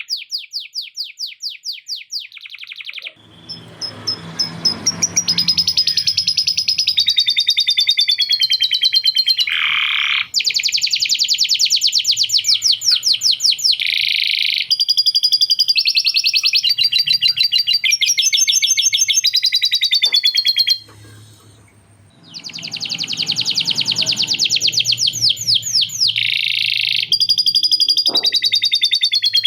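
Male canary singing a long, continuous song of rapid trills and rolls, with a short break about three quarters of the way through.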